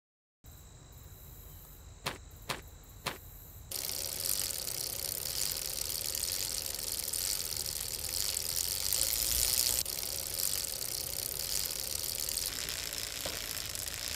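Three sharp clicks about half a second apart, then, from about four seconds in, a steady high-pitched outdoor hiss that lasts to the end.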